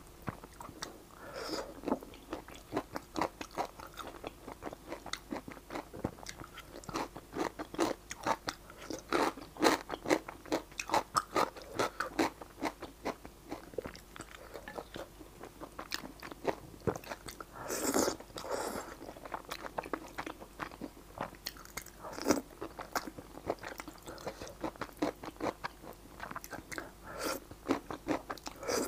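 Close-miked chewing of saucy Xinjiang fried rice noodles: steady wet smacking and chewing, with a few longer, louder slurps of noodles now and then.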